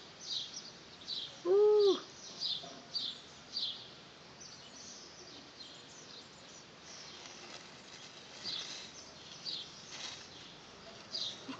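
A bird chirping over and over, about two short high chirps a second, pausing in the middle and starting again near the end. About two seconds in comes one short pitched sound that rises and falls, the loudest thing here.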